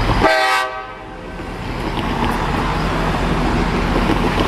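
A short train horn toot about a quarter second in, over the steady rumble and hiss of a train running.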